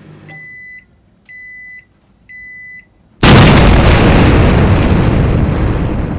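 Three electronic beeps about a second apart, each lasting half a second, then a sudden loud explosion-like boom about three seconds in that fades slowly.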